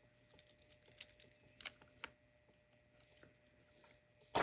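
Scattered light clicks and taps of small jewelry pieces being handled, with a sharper clack near the end.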